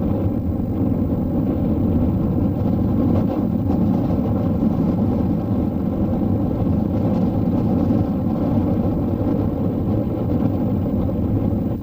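Heritage railway train running at a steady pace, a continuous low rumble.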